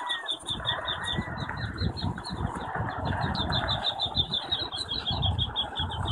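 Baby quail chicks peeping in a rapid, steady series of high chirps, about seven a second, over low wind rumble on the microphone.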